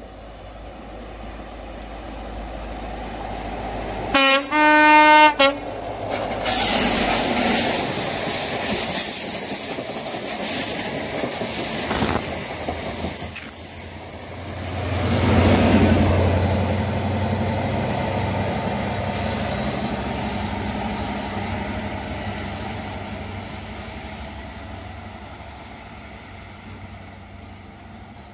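A Network Rail Class 43 HST test train sounds a short horn blast of two notes about four seconds in, then passes at speed with a loud rush of wheel and air noise. About fifteen seconds in the power car's diesel engine swells up and then fades away as the train runs off.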